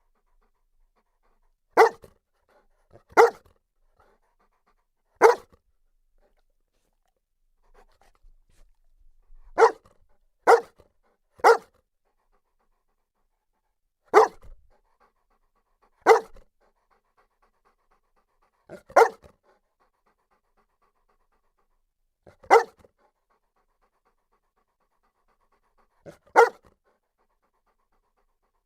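Saint Bernard barking: about eleven single deep barks, spaced irregularly one to four seconds apart.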